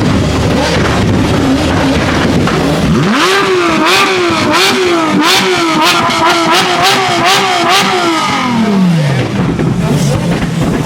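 Car engine revved hard up to its rev limiter about three seconds in, bouncing off the limiter about eight times with sharp cracks from the exhaust, then dropping back down to idle.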